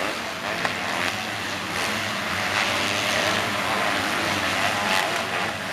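Several motocross bike engines racing, their pitch rising and falling as they rev.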